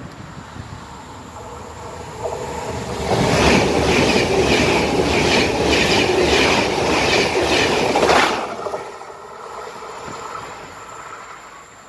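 Trenitalia ETR 700 Frecciargento electric high-speed train passing at speed close by. Its wheels clatter over the rail joints in a quick, even rhythm. The sound builds over a couple of seconds and cuts off suddenly a little past the middle, leaving a much quieter sound to the end.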